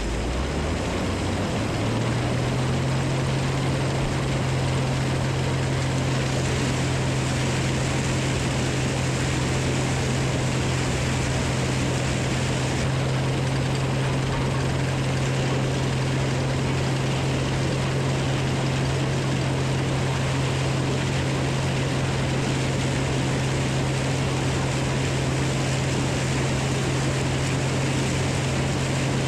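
A large farm machine's engine speeds up over the first couple of seconds, then runs steady at high speed with a strong drone over a broad rushing noise.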